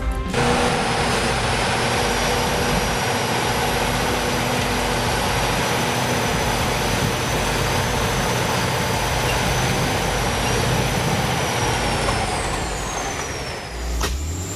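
Heavy truck engine running steadily under a layer of mechanical noise, with a high whine that drops in pitch and fades about twelve seconds in. A sharp click comes near the end.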